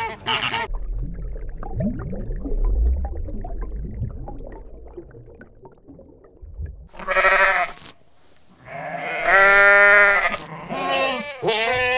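Sheep bleating: three calls in the second half, the middle one long and wavering and the loudest, after a few seconds of low rumbling noise.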